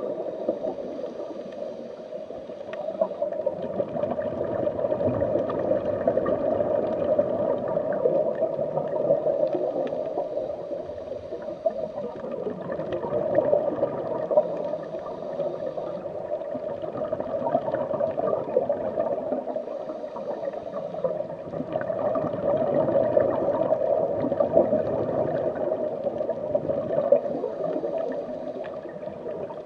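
Background underwater water-ambience sound effect: a steady water sound that swells and eases every several seconds.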